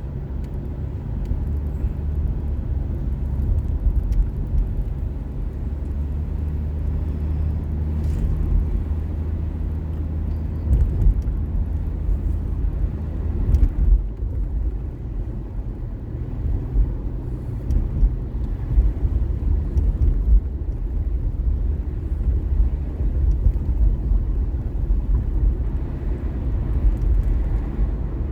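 Car on the move: a steady low rumble of engine and road noise, with a few short louder bumps.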